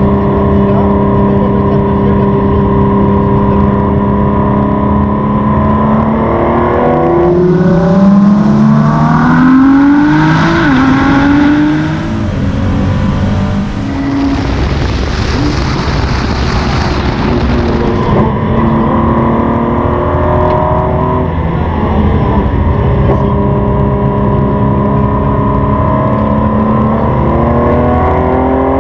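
2017 Ford GT's twin-turbo 3.5-litre V6 heard from inside the cabin at speed. It holds a steady note, then revs rise and fall through several gear changes. Mid-way the engine note gives way to a rushing hiss for a few seconds before the steady drone returns.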